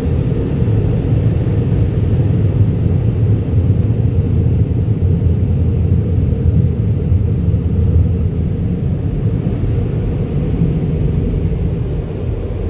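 Automatic car wash air dryer blowers running, blowing the water off a washed car: a loud, steady noise that eases slightly near the end.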